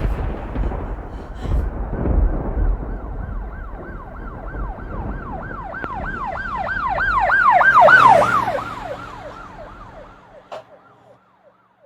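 Emergency vehicle siren on a fast yelp, its pitch rising and falling about three times a second. It grows louder to a peak about eight seconds in, then fades and drops in pitch as it passes. A low rumble underneath dies away.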